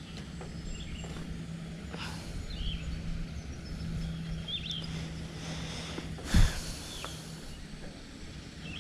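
Outdoor ambience with a steady low hum and a few faint, short bird chirps. A single sharp thump comes about six and a half seconds in.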